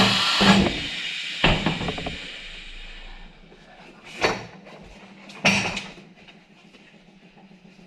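A loud hiss that fades away over about three seconds, with sharp knocks and clanks at scattered moments of handling a motorcycle wheel and tire, and a faint steady hum underneath.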